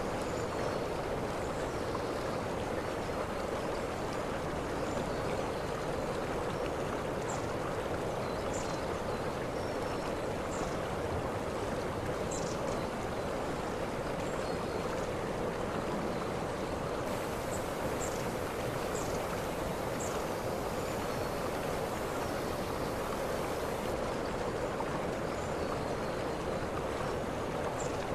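Waterfall: a steady, even rush of falling water. Short high chirps sound over it every second or two.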